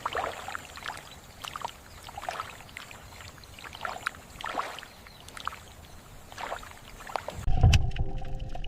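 Water splashing and lapping in irregular spurts. Near the end it gives way abruptly to louder low thuds over a steady hum.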